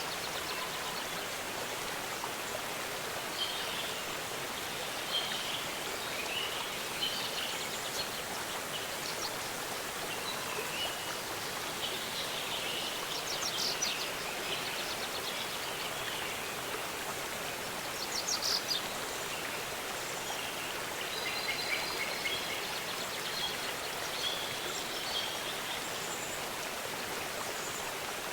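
Steady rush of a waterfall, with birds chirping and trilling now and then over the water noise.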